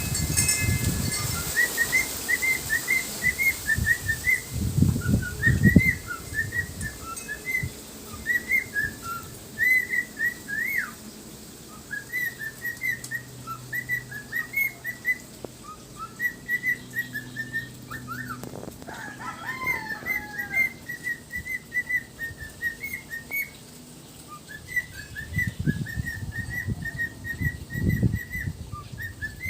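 Pet parrot chattering in a long run of short whistled and chirped notes, with low thuds now and then.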